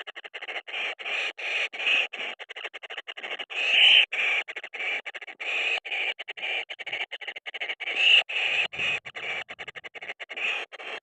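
Kingfisher nestlings giving harsh, raspy begging calls in a fast, continuous chatter of several calls a second, louder in bursts about four and eight seconds in: the sound of hungry chicks demanding food.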